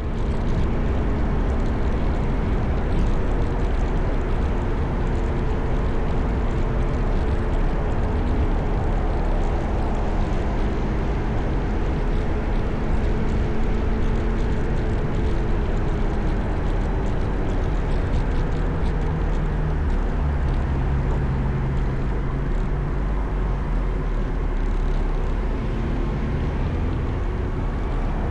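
Motorcycle riding at freeway speed: a steady engine note under a constant rush of wind and road noise.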